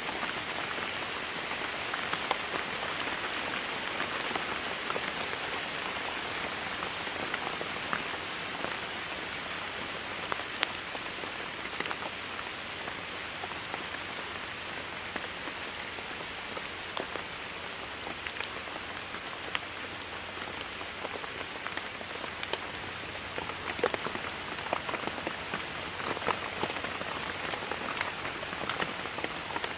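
Steady rainfall with many close drops landing as sharp, scattered ticks over an even hiss.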